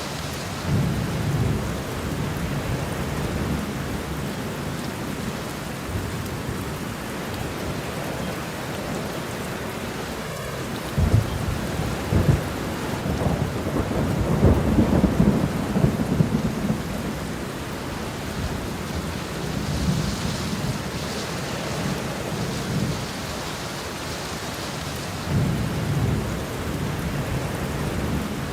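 Steady rain hiss with rolling thunder rumbling low underneath. The thunder swells about a second in, builds to its loudest stretch from about eleven to seventeen seconds, and comes back twice more near the end.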